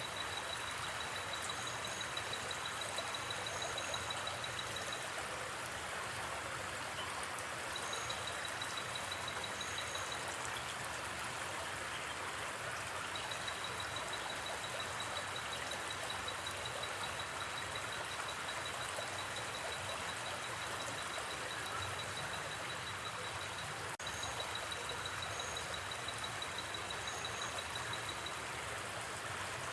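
Steady rushing of a flowing river, with a fast, high-pitched trill of night insects that runs for several seconds at a time, breaks off and starts again. A few faint, higher double chirps sound now and then.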